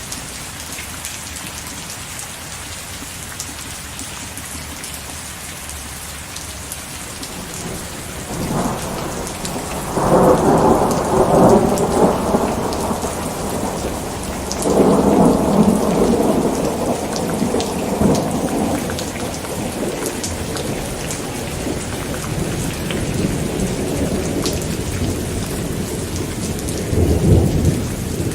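Steady rain falling, with rolling thunder: a long rumble building from about eight seconds in, swelling twice, then fading, and another roll near the end.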